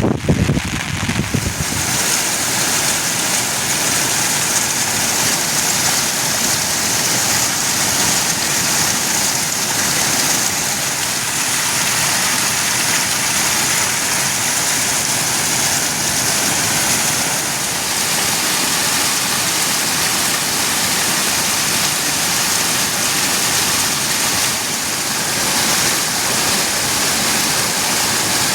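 Steady heavy monsoon rain falling, an even hiss, with a low rumble in the first second or so.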